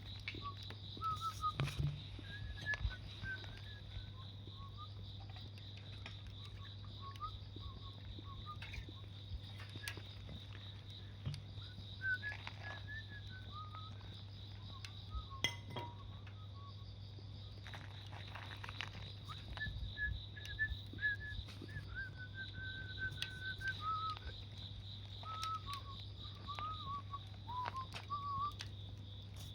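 Insects trilling steadily in a high, finely pulsing note, with scattered short high chirps and a few sharp pops from a wood fire crackling, over a low steady hum.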